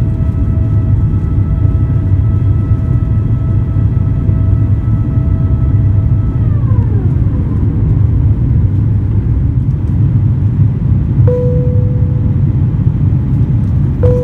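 Airbus A350-900 cabin noise in flight: a steady low rumble with the whine of the Rolls-Royce Trent XWB engines, whose pitch drops about halfway through as engine thrust is reduced. Two single cabin chimes ring a few seconds apart near the end.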